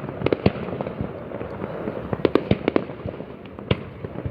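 Fireworks going off: an irregular string of sharp bangs, bunched in quick clusters, over a continuous rumble of more distant bursts.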